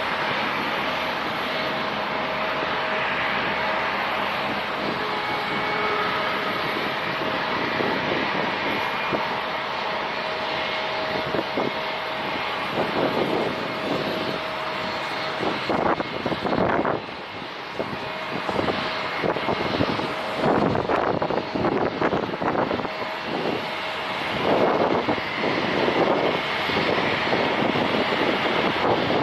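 Airliner engines at takeoff power, a steady roar with a faint whine. Wind gusts buffet the microphone through the second half.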